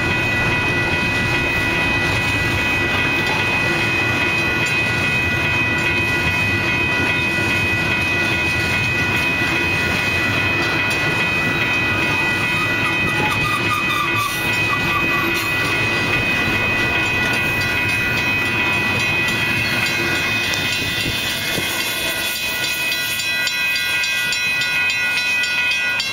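Double-stack intermodal freight cars rolling past at speed: a steady rumble of wheels on rail with clickety-clack, and a steady high-pitched ringing tone running over it.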